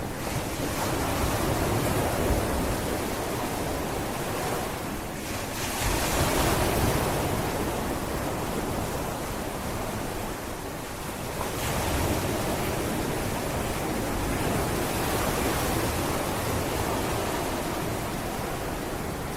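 Sea waves breaking and washing onto a beach: a continuous surf hiss that swells three times as waves come in.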